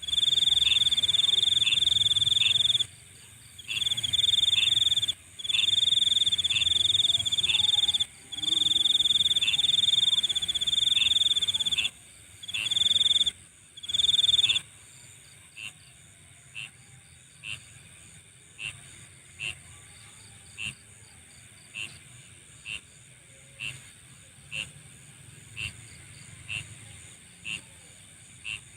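Night insect chorus. A loud, high, steady trill runs in stretches of a few seconds with short breaks, then stops about halfway through. After that only short chirps at the same pitch remain, about one a second, over a constant high-pitched hiss from more insects.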